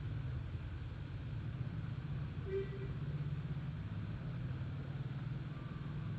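Cat purring steadily, a low rapid rumble, with one short squeak about two and a half seconds in.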